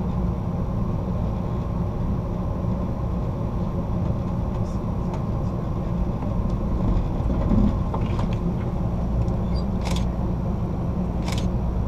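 Amtrak California Zephyr passenger car rolling steadily along the track, a low rumble heard from inside the rear car, with two short sharp clicks near the end.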